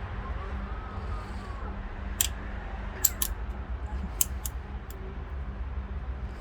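Lawn tractor transmission parts being handled during disassembly: a handful of short sharp clicks and knocks, over a steady low hum.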